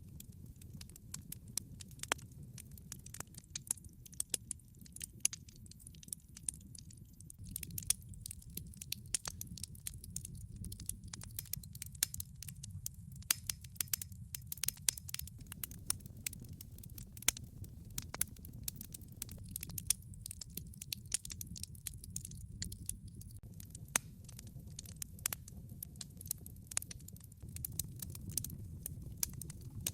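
Wood fire crackling in a fireplace: a steady low rumble of burning logs with many irregular sharp pops and snaps.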